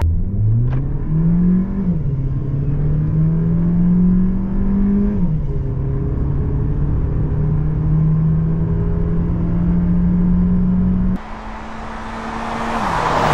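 Mercedes-Benz GLB 180's 1.33-litre turbocharged four-cylinder at full throttle, heard from inside the cabin: the engine note climbs and drops back at upshifts about two and five seconds in, then climbs slowly in the next gear. Near the end the sound switches to trackside as the SUV comes past, its engine note falling as a rush of tyre and wind noise swells.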